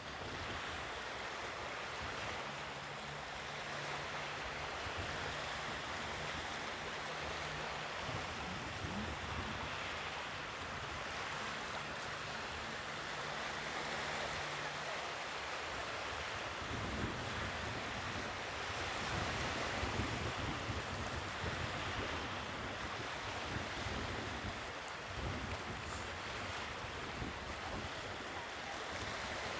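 Sea waves washing onto the shore in a steady rush of surf, with wind gusting on the microphone in the second half. A faint low steady hum runs under the surf through roughly the first half.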